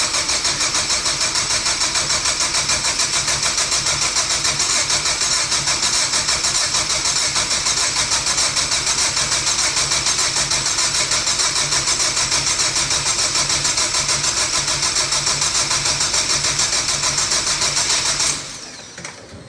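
Starter motor cranking a turbocharged Mazdaspeed3 four-cylinder engine that does not fire: a steady, evenly pulsing churn that never rises into a run and stops abruptly near the end. It is a test crank at the first startup after a turbo and engine build.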